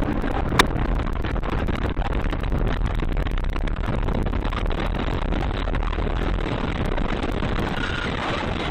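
Steady road and engine noise of a moving car as picked up by a dashcam inside the cabin, with one sharp click about half a second in.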